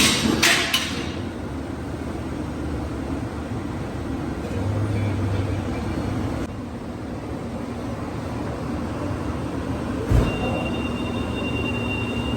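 Chevrolet Caprice Classic exhaust with a newly fitted Flowmaster Flow FX muffler, idling with a steady low rumble and a brief rise about five seconds in. Near the end comes a knock, then a steady high electronic tone.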